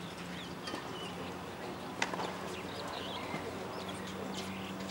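Birds chirping in short, scattered calls over a steady low hum, with a few sharp clicks.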